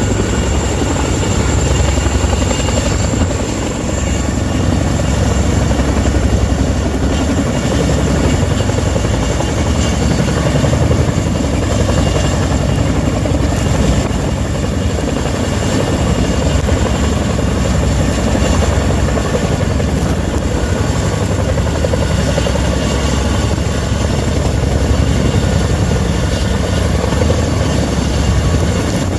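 Helicopter running close by: loud, steady rotor noise with a rapid blade chop and a steady high whine over it.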